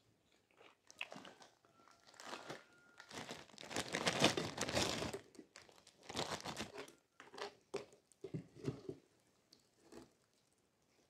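Close-miked eating sounds: chewing and crunching bites, loudest and longest a little past the middle, then a run of short clicks and smacks near the end.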